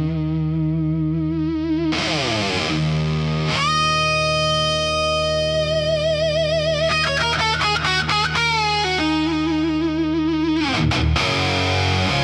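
Blues-rock instrumental intro: an overdriven electric guitar plays a solo of bent notes and held notes with vibrato over a steady low bass note.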